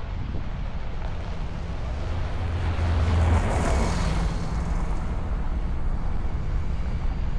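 Volkswagen Vanagon driving: a steady low engine and road rumble, with a rushing swell of noise that builds to a peak about halfway through and then fades.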